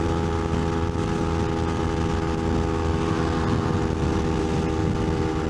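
Kawasaki Ninja 250R's parallel-twin engine running at steady revs under load as the motorcycle climbs a long bridge incline, over a steady rush of road noise.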